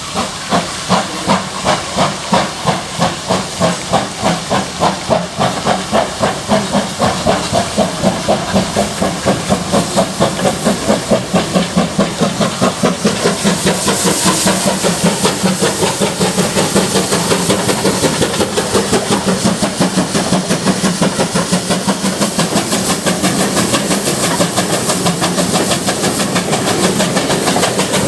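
Steam locomotive exhaust beats from GWR 56xx 0-6-2 tank engine 6695 as it pulls away under load, with steam hiss: the beats start at about two a second and quicken steadily. About halfway through they merge into a continuous loud rush.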